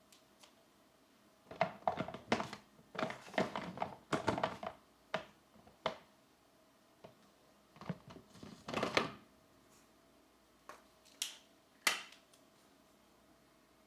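Colored pencils scratching on paper and being handled, in short bursts of scratchy strokes and sharp clicks, with a couple of single clicks near the end.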